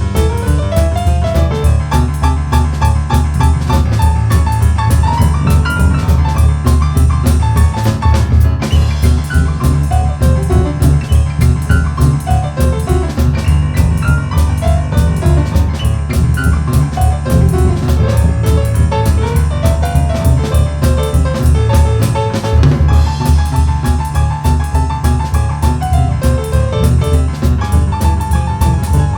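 Boogie-woogie piano played live with a drum kit: a fast, driving, evenly pulsing left-hand bass under right-hand melody notes.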